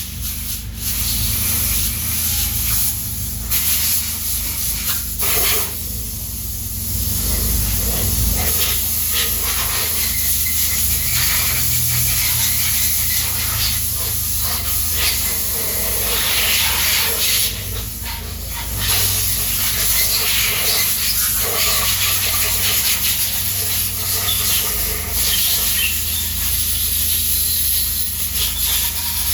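A loud, steady hiss like air or liquid being sprayed, dropping out briefly a couple of times.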